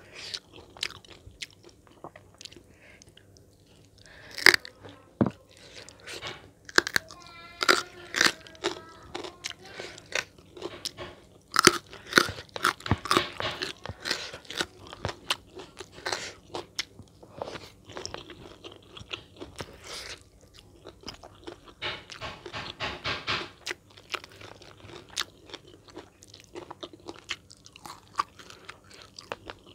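Close-miked eating: crisp bites and crunching chews of crunchy food, with chewing sounds in between, densest through the middle.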